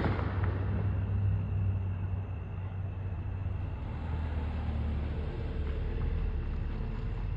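A steady low rumble, without bangs or pops.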